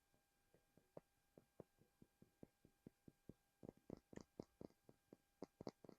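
Light, irregular taps on a small hard object, a few per second, quickening into a denser flurry about four seconds in and again near the end.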